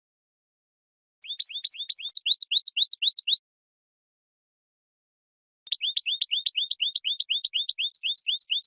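European goldfinch singing: two phrases of rapid, evenly repeated high twittering notes, the first starting about a second in and lasting about two seconds, the second starting near the middle and running on past the end, with dead silence between them.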